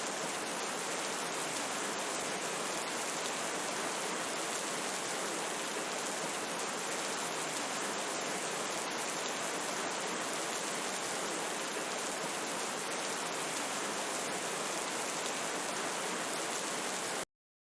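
Steady rain falling, an even hiss of many drops, cutting off suddenly near the end.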